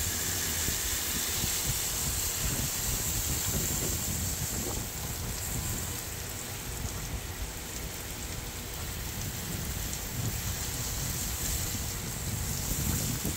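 Water spraying down onto potted succulents during top watering: a steady, rain-like hiss and patter that eases a little around the middle.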